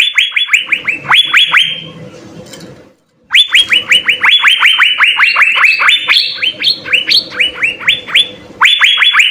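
Asian fairy-bluebird (cucak biru) singing: rapid runs of sharp downward-sweeping whistled notes, several a second, with a short break about two seconds in before a longer run resumes.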